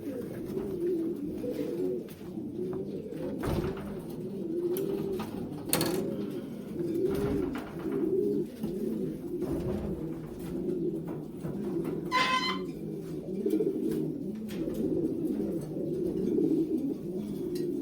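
Racing pigeons cooing in a loft, many low coos overlapping without a break. A few sharp knocks sound among them.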